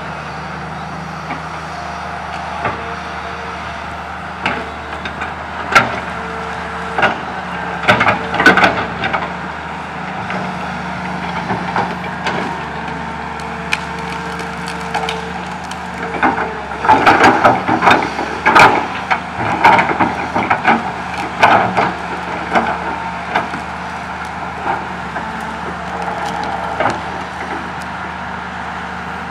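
Komatsu PC200 hydraulic excavator's diesel engine running steadily while its bucket loads tree branches into a dump truck, with clusters of wood cracking and snapping a few seconds in and again through the middle.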